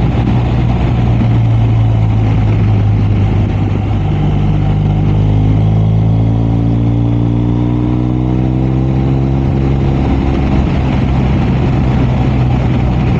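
BMW R 1250 RS boxer-twin engine running while the motorcycle is under way, under a steady rush of wind and road noise. The engine note shifts and rises slightly in the middle as the throttle changes.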